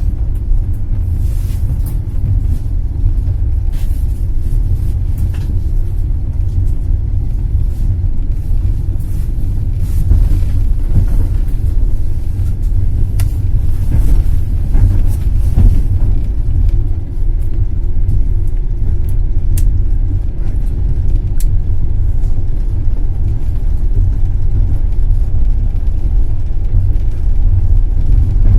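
Passenger train rolling along the track: a steady low rumble with a few faint clicks from the wheels over the rails.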